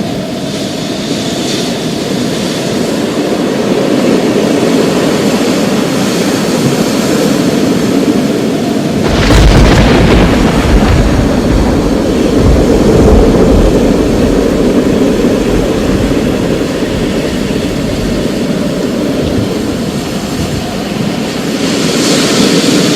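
Thunderstorm: a steady wash of rain with distant thunder. About nine seconds in, a thunderclap cracks and rolls into a deep rumble that lasts several seconds.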